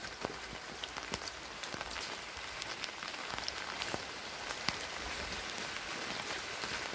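Steady rain falling, a continuous hiss with irregular sharp ticks of individual drops landing close by.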